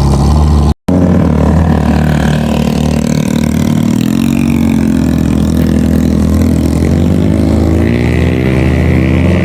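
Suzuki off-road 4x4 engine working under load on a trail, revving up and easing off twice as the pitch rises and falls. The sound drops out for a split second just under a second in.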